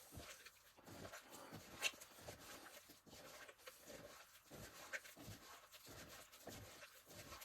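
Faint, irregular scraping and squishing of Sculptamold papier-mâché compound being mixed with water in a small cup, with a couple of sharper clicks about two and five seconds in.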